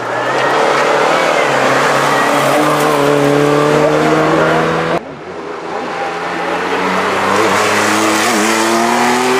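Historic rally cars' engines accelerating hard past, with the pitch climbing steadily. About halfway through, an abrupt cut switches to another car, also accelerating with a rising pitch.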